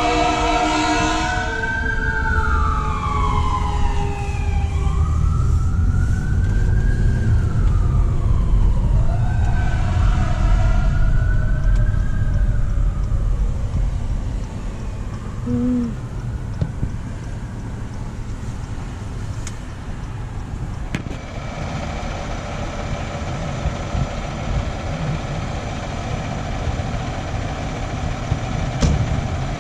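Fire truck responding: a brief air-horn blast at the start, then a siren wailing up and down over a heavy engine rumble, fading out about halfway through. A steady engine hum follows to the end.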